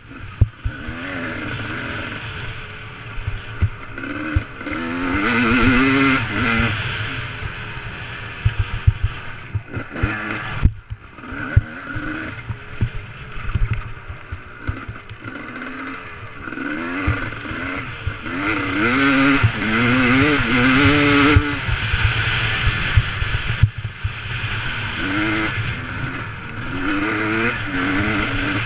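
Motocross bike engine revving up and easing off over and over as it is ridden, its pitch climbing and falling with the throttle. A low rumble with frequent knocks runs underneath, and the engine drops off briefly about ten seconds in.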